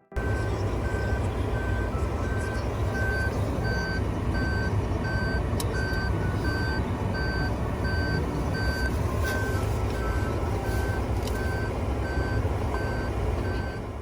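Reversing warning beeps, a steady high beep repeating about twice a second, over a steady low rumble of vehicle noise.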